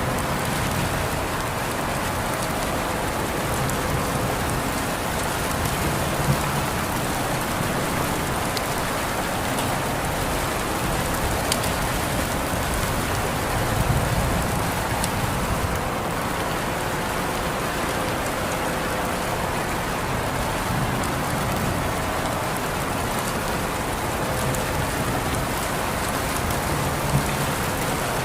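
Steady rain falling and pattering on surfaces, an even hiss with scattered sharp drop ticks and a couple of louder close drops, about six seconds in and near the end.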